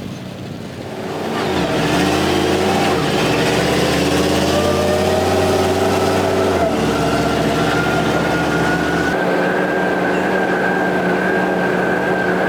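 An engine starts up about a second in and runs steadily, with a low hum and a high whine that slowly climbs in pitch.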